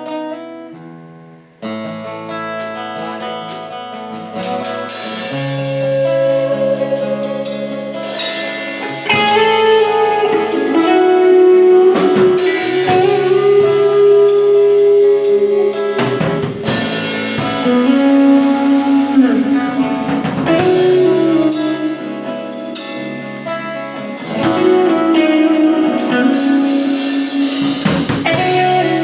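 Guitar played through a Boss GT-100 multi-effects processor into two amplifiers in stereo: long held lead notes, some bending in pitch, over a drum backing.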